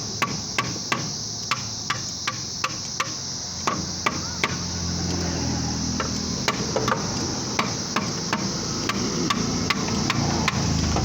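A run of sharp taps or clicks, about two to three a second, over a low steady mechanical hum that grows stronger about halfway through.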